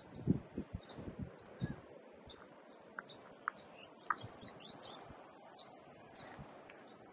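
Small birds chirping and calling in the trees, many short high chirps scattered throughout. A few soft low thumps in the first two seconds.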